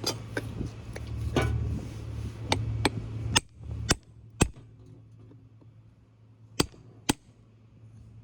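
Hammer striking a chisel to cut the soft lead connector straps on a 24-volt forklift battery: about ten sharp strikes at an uneven pace, most in the first half, then two more near the end.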